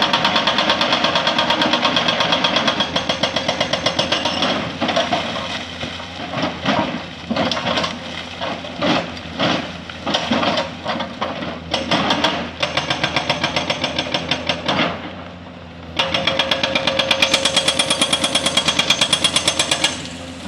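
Hydraulic breaker on a Komatsu 220 excavator hammering with fast, even blows, over the excavator's diesel engine running underneath. The hammering breaks into short separate bursts about five seconds in, pauses briefly about fifteen seconds in, then resumes in a steady run.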